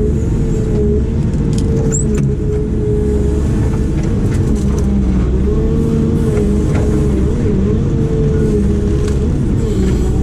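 Heavy construction machine's diesel engine running steadily under work, with a whine that wavers slightly in pitch and a few light clicks and knocks.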